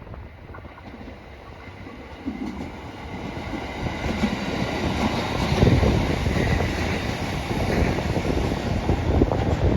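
Train drawing near and running past, its wheels clattering over the rail joints over a low rumble, growing louder from about two seconds in.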